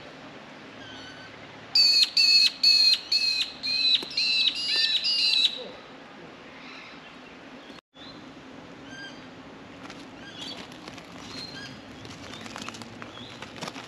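A bird gives a loud, quick run of about ten repeated high calls, each dropping then holding in pitch, lasting a few seconds. After a brief cut, fainter scattered bird chirps follow.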